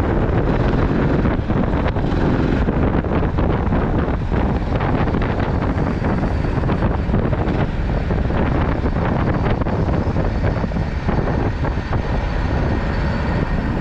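Loud, steady rumbling noise like wind buffeting the microphone while moving, with irregular knocks throughout.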